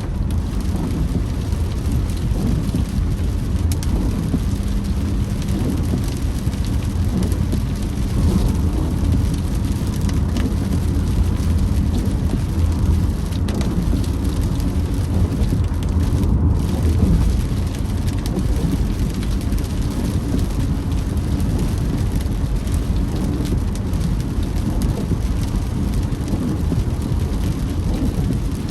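Rain falling on a moving car over steady road and tyre noise, with scattered small taps of raindrops.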